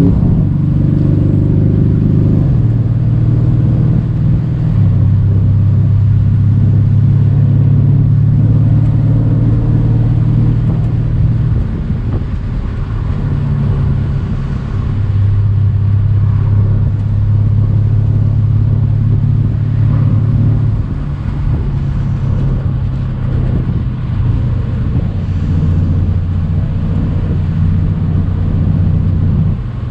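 Mercedes-AMG C63's 4.0-litre twin-turbo V8 running on the move under light load, a steady low drone that steps down and up in pitch several times as the engine speed changes.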